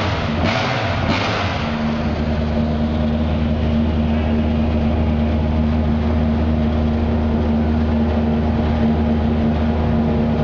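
Subaru Impreza WRC rally car's turbocharged flat-four engine idling with a steady hum. A few regular thumps in the first second and a half give way to it.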